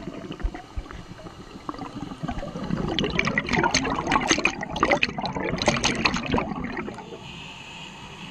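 Scuba diver's exhaled bubbles bubbling and gurgling up from the regulator underwater, a crackling burst of about four seconds starting about three seconds in.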